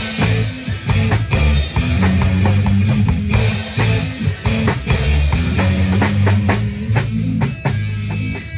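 Live rock band playing an instrumental passage: drum kit hits over a steady bass line and electric guitar. The drumming eases off near the end.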